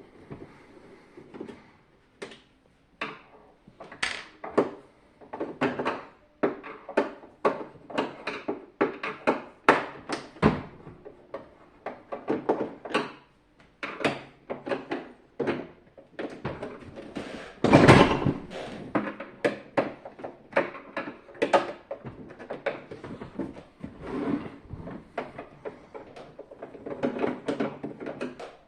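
Plastic housing and parts of a SilverCrest SLE 450 A1 dehumidifier being handled while it is taken apart: a steady run of clicks, knocks and scrapes, with one louder knock about two-thirds of the way through.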